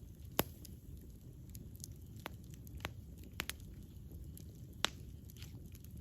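Wood campfire crackling: scattered sharp pops and snaps, the loudest about half a second in and just before five seconds, over a low steady rumble of burning.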